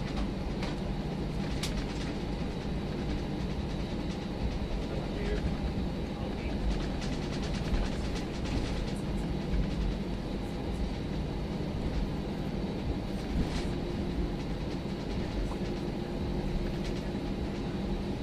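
Cabin noise of an Airbus A319 taxiing after landing: a steady low rumble of the idling engines and rolling wheels, with a few scattered clicks and knocks.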